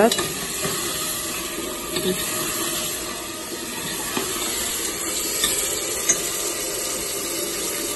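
Chicken pieces and onion sizzling in hot oil in a metal pot, stirred with a long metal spoon that scrapes and taps against the pot a few times.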